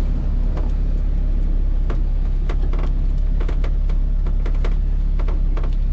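The turbocharged K24-swapped Honda S2000's engine idling steadily, a low even drone with scattered light clicks over it.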